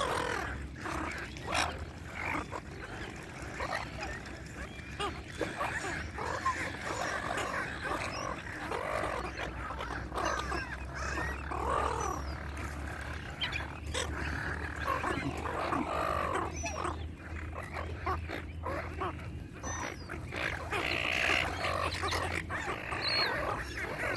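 Black swans and cygnets calling, a continual run of overlapping bird calls. A steady low hum runs underneath through the middle part.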